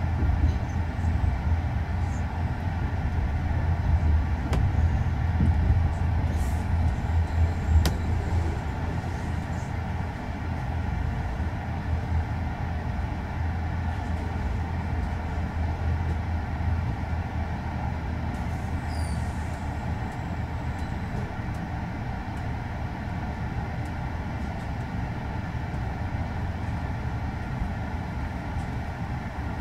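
Steady running noise of a moving passenger train heard from inside a couchette car: a deep rumble of wheels on the track, a little louder in the first ten seconds, with a couple of sharp clicks early on.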